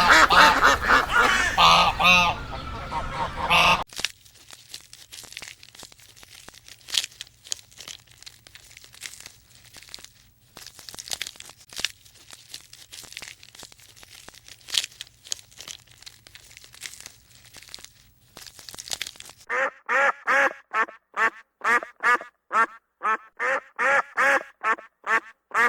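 Ducks quacking: a loud burst of overlapping calls at the start, then a quieter stretch of soft scattered clicks, then a run of rapid, rhythmic quacks, about three a second, from around twenty seconds in.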